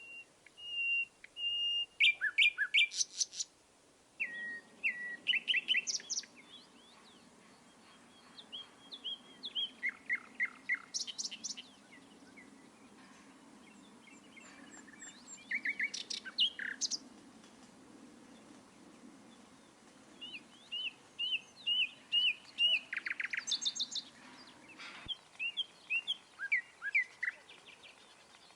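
Several songbirds chirping and singing in short phrases of whistled notes and quick trills, with pauses between them. Under the calls, a faint low steady rush starts about four seconds in and stops with a click near the end.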